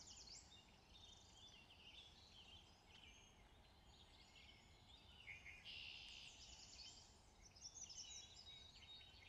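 Near silence with faint birdsong: many short, high chirps and calls, a little louder in the middle and near the end.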